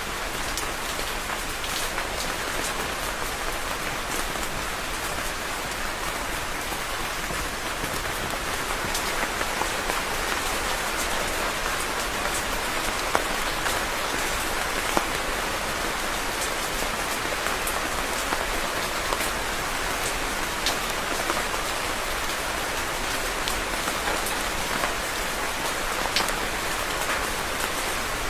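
Steady rain falling on a surface, an even hiss with scattered distinct drop ticks throughout.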